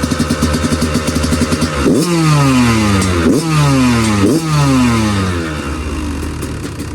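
Dirt bike engine idling, then blipped three times in quick succession, each rev rising sharply and falling slowly back toward idle.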